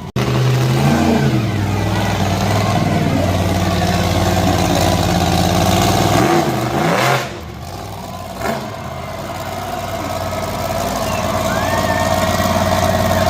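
Monster truck engine revving hard, its pitch rising and falling. The engine drops off sharply about seven seconds in, blips once, and then builds up again steadily.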